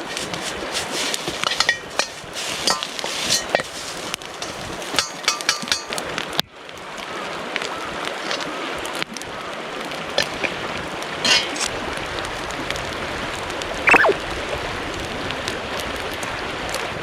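Metal spatula clinking and scraping against a wok in quick, irregular strokes, over a steady rush of river water. The clinks come thickly for the first six seconds, then thin out to a few.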